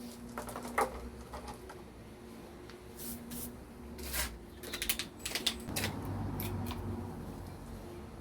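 Tools and metal parts being handled: scattered clicks and knocks, several in quick succession about halfway through, over a faint steady hum.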